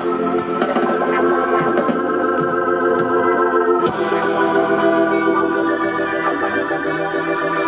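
Organ playing held chords in live band music, with a chord change about four seconds in.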